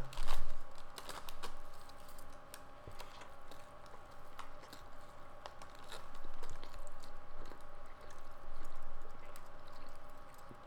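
A person biting into a toasted cheesy garlic bread meatball sub, loudest right at the start, then chewing close to the microphone with irregular small crunches and mouth clicks.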